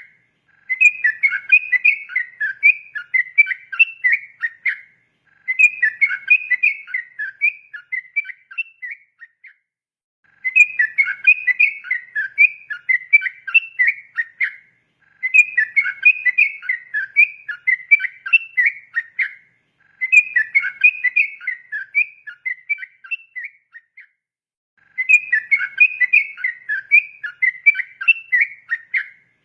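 Yellow-vented bulbul (trucukan) singing its long, rapid 'ropel' song: six bubbling, chattering phrases of about four seconds each, separated by short pauses.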